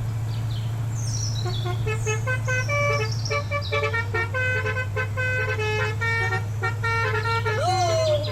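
A steady low engine drone, like a small tractor's engine, runs under light music with short plucked notes. A brief rising-then-falling tone sounds near the end.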